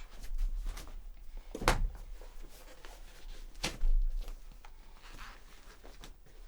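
Handling noises as leather shoes are put on: two sharp knocks about two seconds apart amid scattered small ticks and rustling.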